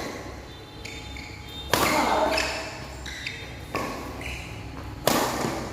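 Badminton racket strings striking a shuttlecock three times in a rally, each a sharp crack with a short ring in the hall, the middle one softer. Short high squeaks of court shoes come between the hits.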